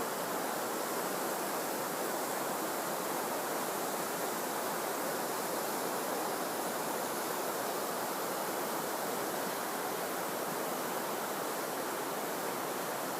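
Mountain stream rushing steadily, an even, unbroken sound of water.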